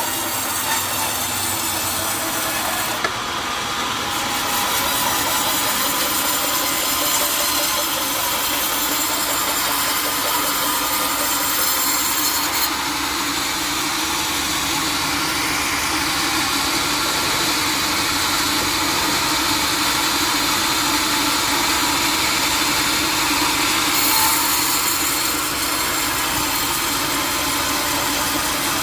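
Sawmill saw running steadily while cutting through teak wood, with machine noise and a steady whine throughout. The high hiss shifts abruptly a few times.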